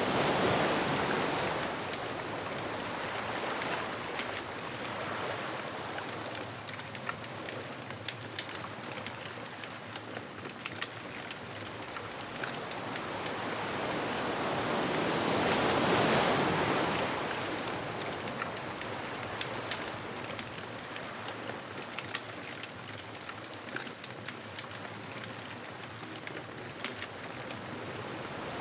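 Ocean surf washing onto a beach, one wave swelling and breaking about halfway through and another fading at the start, with a bonfire crackling and popping throughout.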